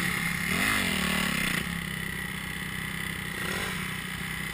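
Dirt bike engine revving up and down in short swells as the rear wheel spins in mud with the bike stuck. About a second and a half in, it changes abruptly to a steadier, quieter engine drone.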